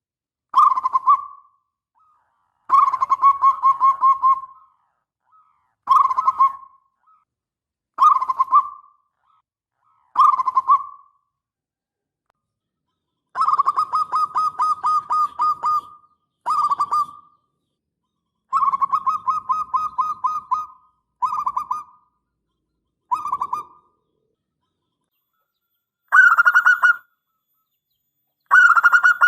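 Zebra dove (perkutut) cooing: about a dozen phrases of fast, trilled coos separated by short pauses. Two phrases in the middle are longer, and the last two are a little higher.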